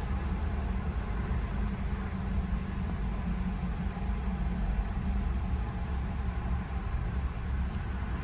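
Steady low rumble with a fainter hiss above it; no single sound stands out.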